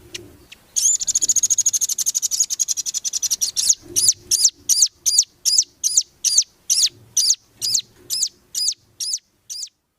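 Nuthatch (rambatan, the velvet-fronted nuthatch) calling: a rapid high trill for about three seconds, then a string of sharp single calls about two to three a second that stop just before the end.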